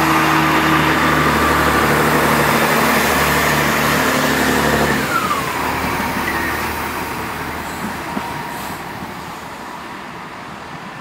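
Diesel multiple unit passing close by and pulling away, its underfloor diesel engines running under power, then dropping away about halfway through; a brief falling tone follows, and the rail noise fades steadily.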